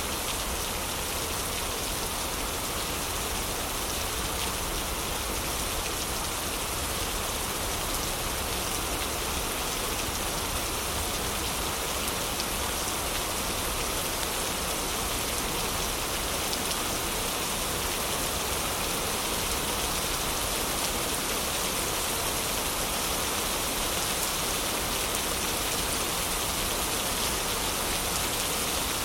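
Heavy rain falling steadily, an even wash of rain noise.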